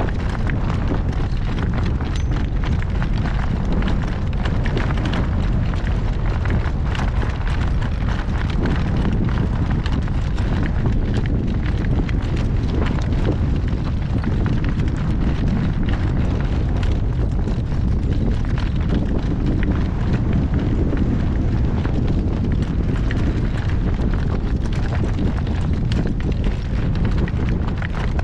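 Strong wind buffeting the microphone: a loud, steady, low rumble with constant gusty crackle.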